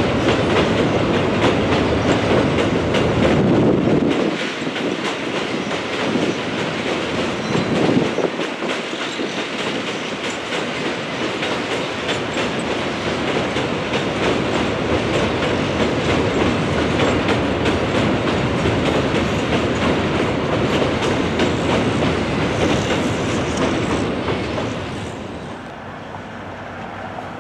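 Freight wagons loaded with garbage containers rolling over a steel girder railway bridge, their wheels clattering over the rail joints in a fast, continuous clickety-clack. The sound drops to a quieter, steady noise near the end.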